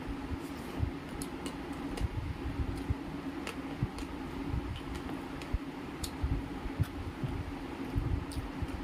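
Close-up eating sounds: chewing and small wet mouth clicks as rice is eaten by hand, scattered irregularly. A steady low hum runs underneath.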